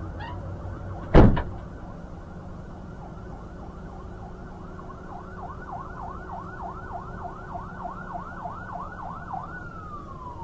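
Emergency vehicle siren: a high held wail, then a fast yelp of about three sweeps a second, winding down in a long falling tone near the end. A single loud thump about a second in.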